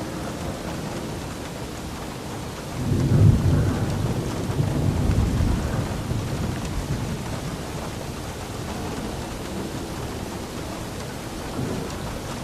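Steady rain with a roll of thunder: a deep rumble builds about three seconds in, peaks, and fades away over the next few seconds while the rain continues.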